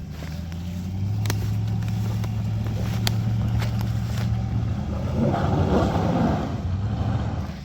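GMC Z71 pickup's engine pulling steadily under throttle, growing louder over the first second. About five seconds in, a rough rushing noise joins it for a second or so before the engine eases off near the end, with a few sharp ticks and snaps along the way.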